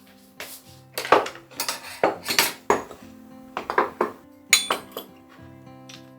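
Dishes and cutlery clinking and clattering, a dozen or so sharp knocks with short ringing, over soft background music.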